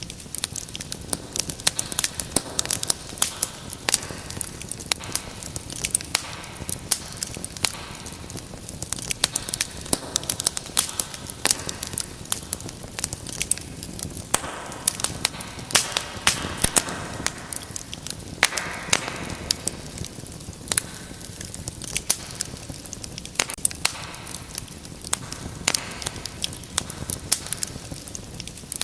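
Wood fire in a fireplace crackling steadily: many sharp pops and snaps over a soft hiss of burning, with a few brief stretches of louder hissing.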